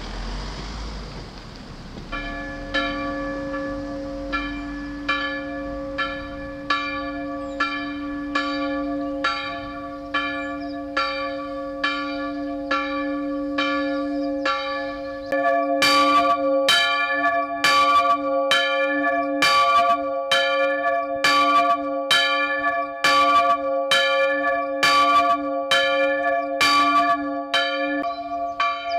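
Church bells swinging and ringing for a service. The 1596 Borchardt Gelgeter bell, with a strike tone of d2, starts about two seconds in, with steady strokes a little under a second apart. About halfway through the smaller g2 bell joins it, and the strokes become louder and sharper, each one ringing on over the next.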